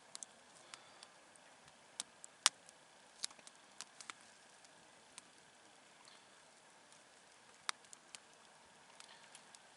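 Wood campfire crackling: scattered sharp pops and ticks, the loudest about two and a half seconds in, over a faint steady hiss.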